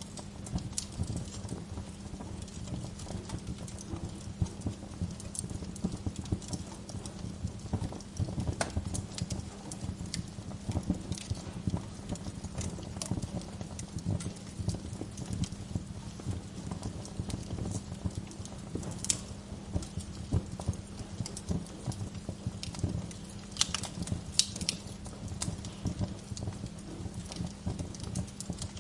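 Wood fire in a fireplace crackling steadily with dense small crackles, with a handful of sharper, louder pops from the burning logs, clustered most strongly a little past the middle and again about three-quarters of the way through.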